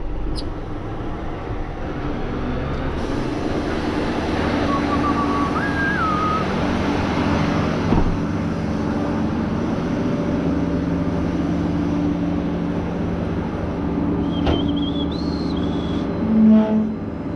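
A vehicle engine running steadily at idle, a continuous low hum with a few faint short chirps over it.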